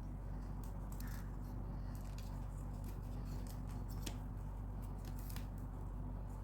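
Plastic craft wire being handled and knotted: strands rustle, scrape and click in a string of short, crisp ticks as the knots are pulled tight, over a steady low hum.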